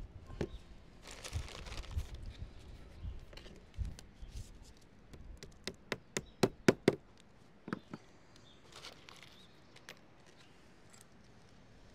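Sharp hammer taps and knocks from leadwork on a roof. They are scattered at first, then come in a quick run of about six strikes around the middle, with one more shortly after and a few faint knocks near the end.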